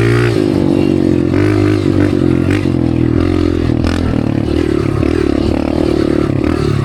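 Dirt bike engine and exhaust running as the bike is ridden, its pitch rising and falling with the throttle, with a couple of sharp knocks midway.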